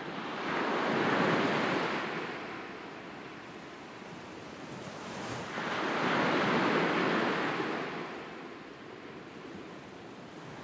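Sea waves washing in, two swells about five seconds apart, each rising and then fading away.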